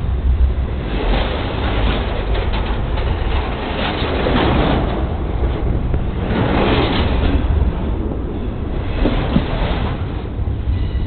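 Train rolling directly over the microphone, heard from the ballast between the rails: a loud, continuous rumble of wheels on the rails that swells and eases as the cars pass, with occasional sharp clanks.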